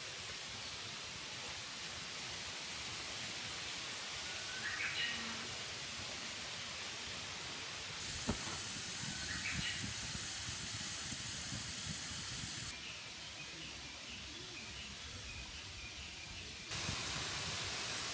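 Outdoor ambience: a steady hiss of background noise with a bird calling briefly twice, and a single sharp click near the middle. The background shifts abruptly a few times.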